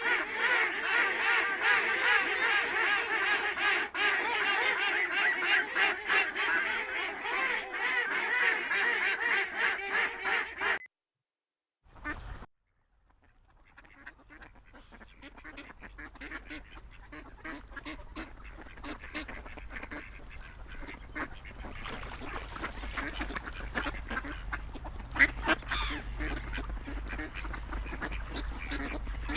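A large group of ducks quacking and chattering over one another, loud and dense; it cuts off abruptly about eleven seconds in. After a short silence, a quieter group of ducks calling fades in over a low rumble and builds up, with one sharp, loud call about a second after the midway point of that stretch.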